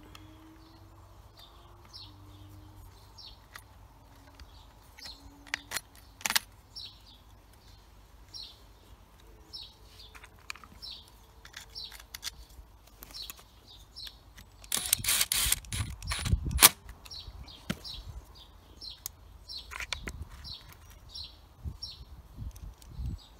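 A small bird chirping, short high chirps repeated over and over. Sharp clicks and, about two-thirds of the way through, a couple of seconds of loud rustling and knocking from hands working on the chainsaw's parts.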